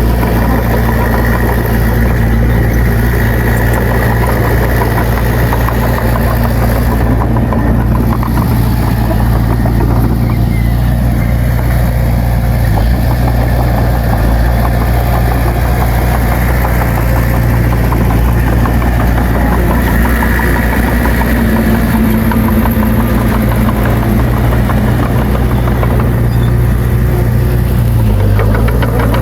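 Heavy earthmoving machine's diesel engine running steadily with a deep hum, its pitch shifting slightly a couple of times.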